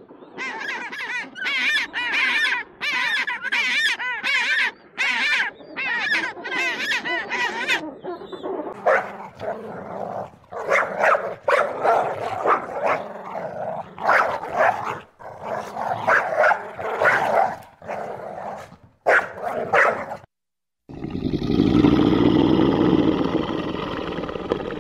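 Dog vocalising, a run of short whining, wavering calls followed by irregular barks and yelps. Near the end, after a brief silence, a steady rushing noise takes over.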